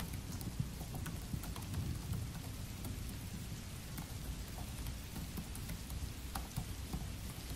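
Steady rain with a low rumble underneath, and the soft irregular clicks of typing on a Dell laptop keyboard.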